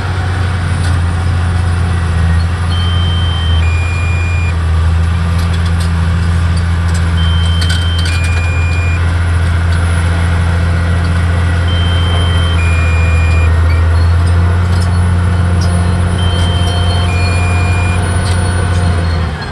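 Caterpillar D6R XL bulldozer's diesel engine running steadily with a deep drone, and a two-note electronic beep, a higher note then a lower one, repeating about every four and a half seconds. There are a few brief metallic clanks.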